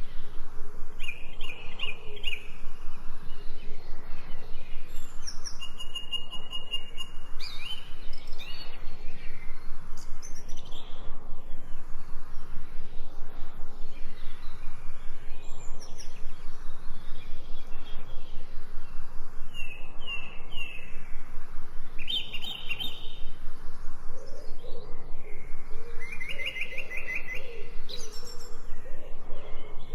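Songbirds chirping and trilling in short, high phrases that come every few seconds, over a steady background that pulses evenly about three times a second. A lower, wavering call joins near the end.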